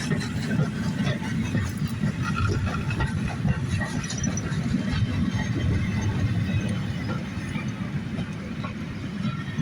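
Goods train hauled by a steam locomotive rolling along the line: a steady low rumble of wagon wheels on the rails, with scattered clicks and brief faint squeals.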